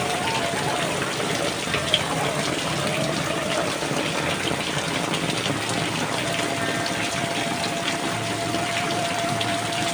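Heavy rain pouring down steadily, a dense hiss of falling and gushing water. A faint steady tone holds for about four seconds in the second half.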